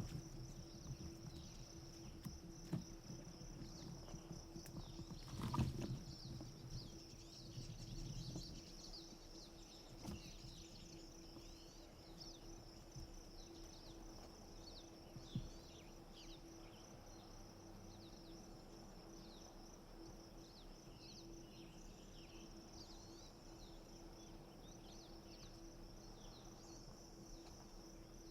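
Faint outdoor ambience in spring woods: a steady high insect buzz with many small birds chirping throughout. Low rustling, like movement through brush, runs through the first several seconds, with a thump about five and a half seconds in.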